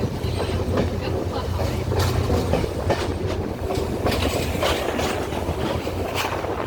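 Class S13 diesel multiple unit train running along the line, its wheels clacking irregularly over rail joints above a steady low rumble.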